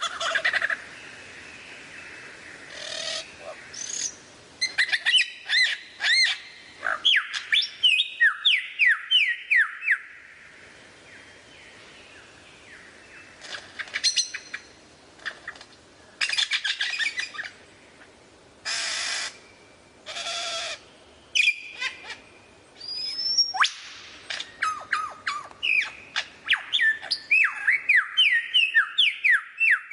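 Lyrebird singing a varied song: runs of rapid, loud whistled notes that sweep up and down, broken by pauses and by a few short, harsh noisy bursts.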